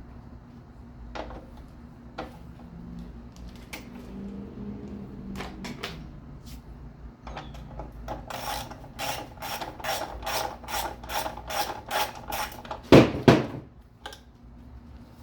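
Socket ratchet clicking in a quick, even run of about three strokes a second as a timing-cover bolt on a VG33E engine is worked out. Two loud knocks come near the end.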